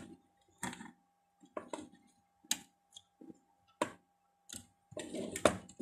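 Irregular small clicks and taps, one every half second to second or so, from hand tools working on a circuit board while a component is being desoldered. A faint steady whine sits underneath.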